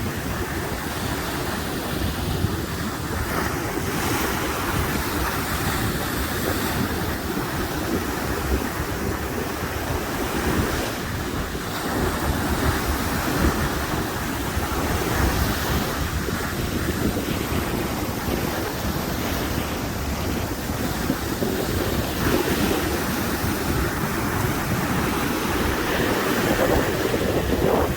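Sea waves washing ashore with wind buffeting the microphone: a steady rush of noise with a deep rumble that swells a little every few seconds.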